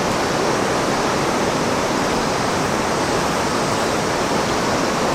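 Steady rushing of river water flowing over rocks, an even, unbroken roar.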